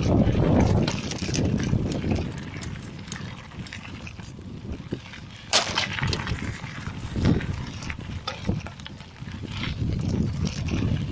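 Mountain bike rolling over a rough dirt trail, with wind rumble on the action camera's microphone and irregular clicks and rattles from the bike over bumps. The rumble is loudest at the start and again near the end, quieter in the middle, with one sharp knock about five and a half seconds in.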